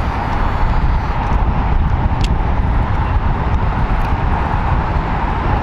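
Steady low rumble of wind buffeting the microphone, with a brief click about two seconds in.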